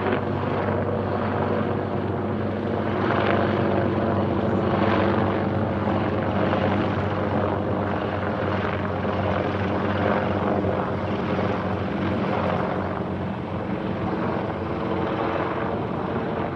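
Helicopters circling overhead: a steady rotor and engine drone that swells and eases slightly as they pass.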